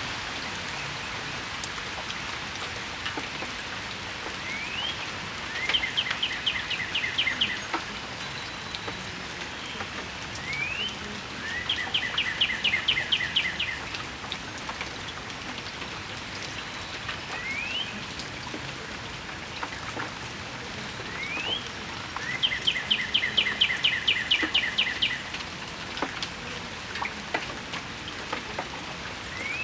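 Steady rain falling, with a bird singing over it: three times a short rising note followed by a quick trill lasting about a second and a half, and a few lone rising notes between.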